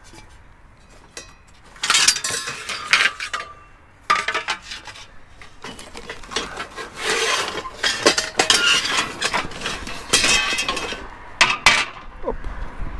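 Scrap metal pieces clanking and clinking together as they are handled and loaded, in several bursts of clatter with a brief metallic ring.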